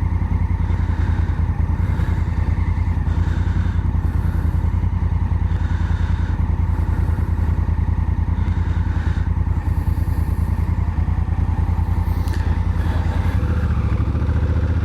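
Honda Africa Twin's parallel-twin engine running steadily at an even, unchanging speed, with a slight change in its low note near the end.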